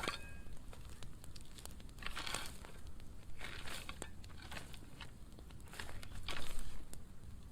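Burning brush pile of dry pruned wood crackling, with sharp pops and short hissing flare-ups every second or two.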